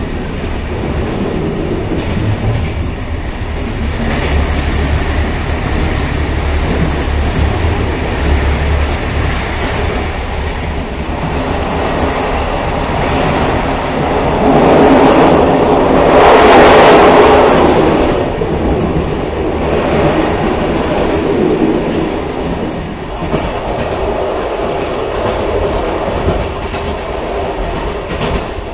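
Railcar running on the rails, a steady running noise that swells louder for a few seconds about halfway through.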